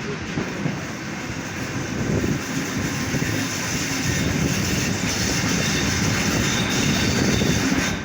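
ALN668 diesel railcar pulling out and gathering speed, its engine and wheels on the rails getting louder about two seconds in.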